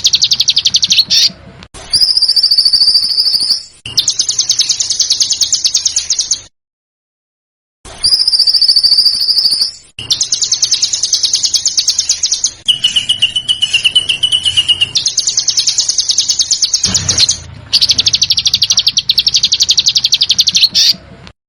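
Recorded small songbird song of the harsh, rapid-fire 'tembakan' kind used as masteran tutor song. It is long bursts of very fast rattling notes, with a few held high whistles woven in, and a pause of about a second roughly a third of the way in.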